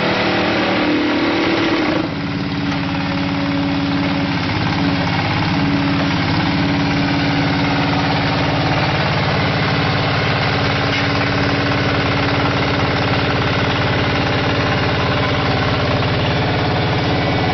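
Small diesel engine of a QT4-30 hydraulic concrete brick machine running steadily, with a brief dip and a change in its tone about two seconds in.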